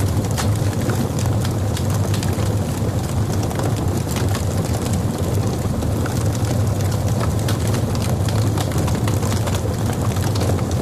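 Logs burning in a fireplace: a steady low rumble of the fire with frequent, irregular sharp crackles and pops.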